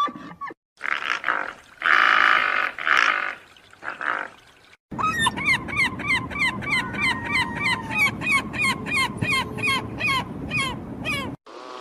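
Two animal calls one after the other. First a rough, noisy call in several pulses lasting about four seconds, then a run of short falling chirps, about three a second, for about six seconds.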